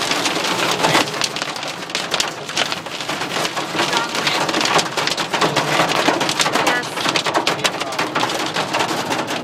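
Hail hitting a car's roof and windows, heard from inside the cabin: a loud, dense, constant rattle of many stone impacts.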